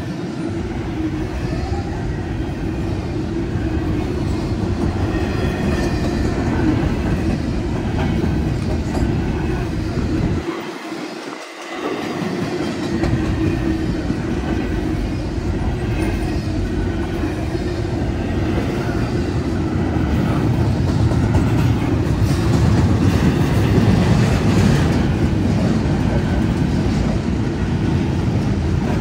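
Freight train's cars rolling past at speed: a steady loud rumble with the clickety-clack of wheels over the rails. The low rumble briefly drops away about eleven seconds in.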